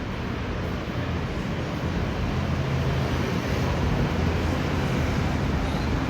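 City street traffic: a steady wash of engine and tyre noise with a low engine hum, growing a little louder about two seconds in.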